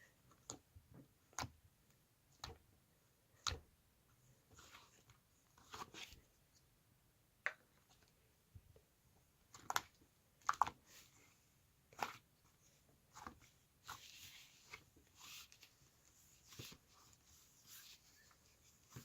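Faint, irregular taps and clicks, roughly one a second, with a stretch of soft rustling in the later part: small handling noises in a quiet room.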